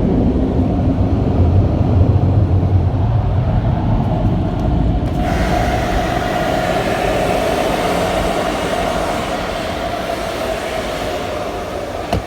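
Tunnel car wash machinery heard from inside the car: a heavy low rumble, then about five seconds in a steady rushing hiss with a hum cuts in, slowly fading toward the end.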